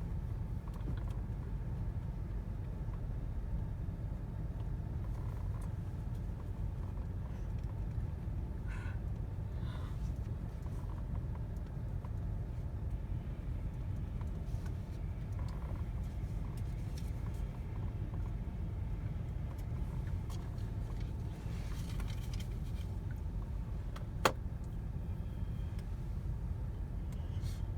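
Steady low rumble heard from inside a car going through an automatic car wash, with a single sharp click about 24 seconds in.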